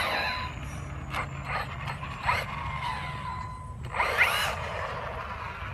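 Losi Baja Rey 1/10 electric RC desert truck driving, its motor whining up and down with short revs of throttle, with clicking and gear chatter from the drivetrain.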